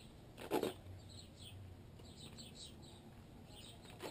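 Small birds chirping in the background, with one short, loud noise about half a second in.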